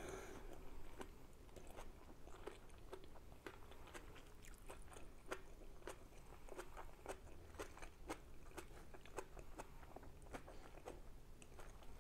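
A person chewing food with the mouth closed: faint, irregular wet mouth clicks and smacks, roughly three a second.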